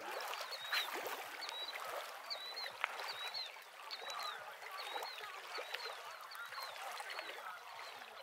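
A bird calling over and over: a short, high chirp about every half second, over a soft wash of lapping water.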